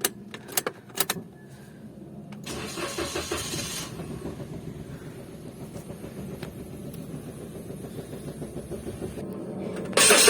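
A few clicks, then the Toyota Wigo's engine cranks and starts about two and a half seconds in and runs with an uneven, rough idle. The roughness is a misfire, which the mechanic traces to an open circuit at injector number 2 (code P0200). A sudden, much louder noise comes in near the end.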